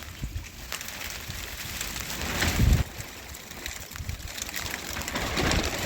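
Rain falling with a steady hiss, with a louder rushing swell about halfway through that stops abruptly and another building near the end.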